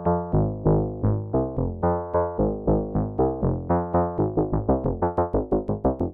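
K-ACCUMULATOR synthesizer module in its FBPM2 mode playing a sequence of short plucked electronic notes, each struck sharply and decaying quickly, stepping through different pitches. The notes come about three a second and speed up to five or six a second near the end.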